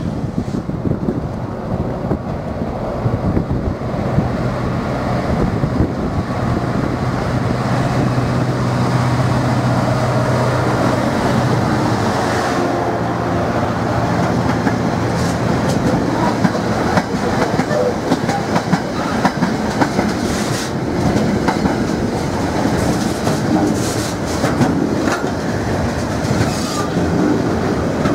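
GBRf Class 66 diesel locomotive, with its two-stroke EMD engine, passing at speed, followed by a long container freight train. The engine's steady drone fades after about twelve seconds, leaving the wagons' wheels rolling and clattering over the rail joints.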